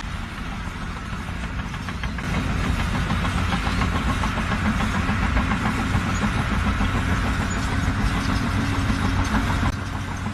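Engine running steadily with a low hum, a little louder from about two seconds in.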